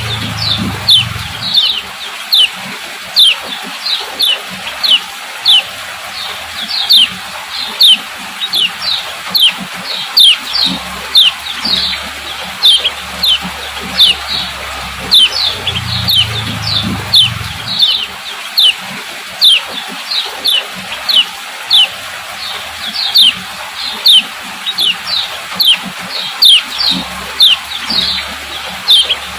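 Female kecial kuning calling 'ciak ciak' over and over: a steady string of short, sharp, high notes that each fall in pitch, about two or three a second.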